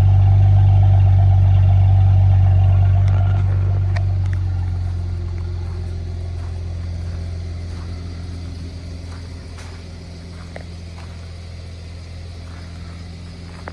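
2015 Mercedes-Benz E400's twin-turbo V6 idling after a cold start. Its steady exhaust drone becomes gradually quieter from about three seconds in.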